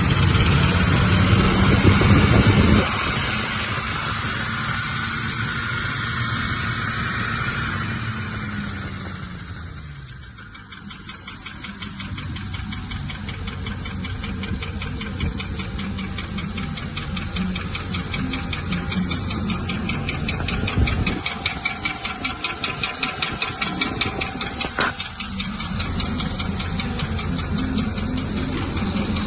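GM/Chevrolet heavy-duty 6.0-litre gasoline V8 engine running. It is louder for the first few seconds and drops back suddenly about three seconds in. Its pitch slides down a little later, and it then runs steadily.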